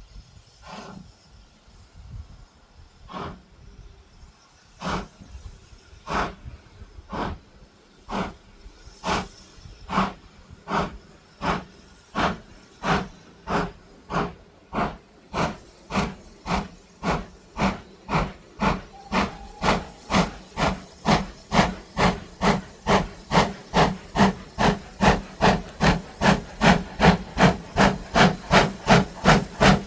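Steam locomotive pulling away, its exhaust beats starting slow and speeding up steadily to about two or three a second, growing louder.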